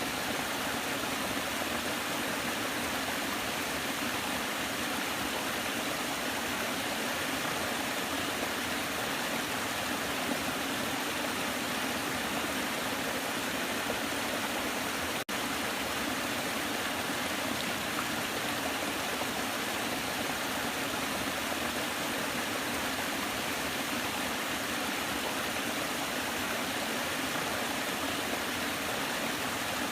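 Waterfall: water rushing and splashing in a steady, unbroken hiss, with a split-second gap about halfway through.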